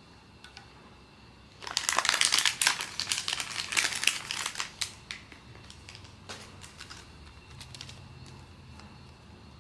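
Plastic packaging being handled and crumpled during a blind-box unboxing: a loud run of dense crinkling for about three seconds, then a few small crackles and clicks.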